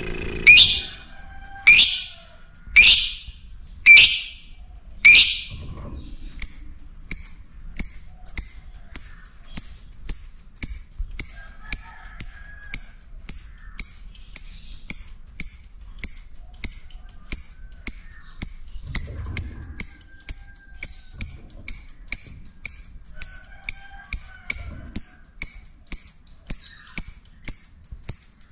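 Lovebird calls: five loud, harsh shrieks sweeping down in pitch about a second apart, then a long run of short, high-pitched chirps repeated evenly about two to three times a second.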